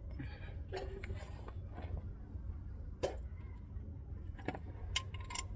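Metal tools and parts being handled under a truck: a few sharp clicks and clinks, about three seconds in and twice near the end, over a low steady rumble.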